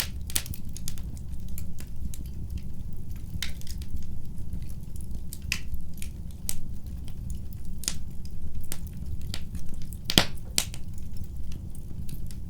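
Wood fire in a fireplace crackling: irregular sharp pops and snaps over a steady low rumble of the flames, with the loudest pop about ten seconds in.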